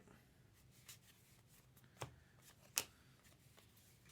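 Faint handling of trading cards as they are flipped through a pack: three soft flicks about a second apart, the last the loudest.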